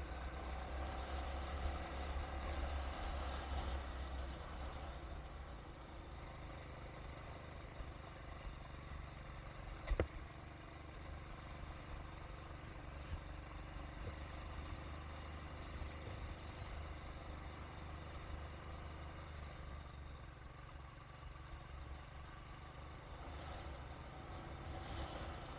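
A vehicle driving, heard as a steady low engine and road rumble. It is a little louder in the first few seconds, and there is one sharp click about ten seconds in.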